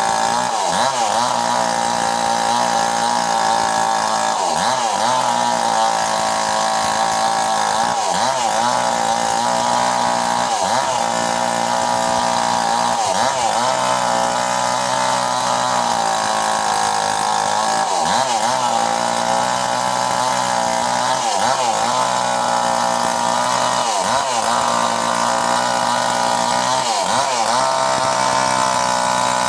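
Small chainsaw running steadily at high speed, its pitch dipping briefly every few seconds.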